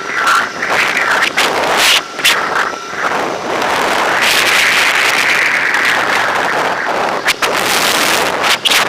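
Heavy wind noise buffeting the microphone while riding an electric motorbike, in gusty thumps with a sustained rush in the middle. A faint steady whine sits under it for the first three seconds.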